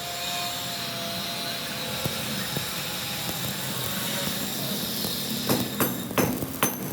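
A machine in the workshop running with a steady hiss and a faint high whine, then a quick run of five or six sharp knocks near the end.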